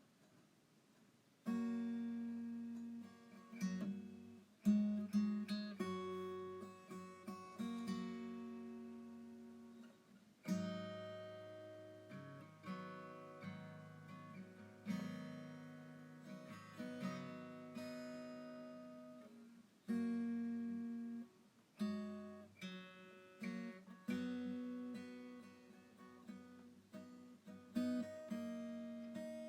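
Background music on acoustic guitar: plucked and strummed chords, each ringing out and fading before the next, starting about a second and a half in.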